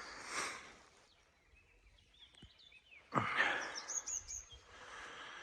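Faint bird chirps, a few short calls near the middle and a higher run of chirps soon after, between hazy bursts of hiss.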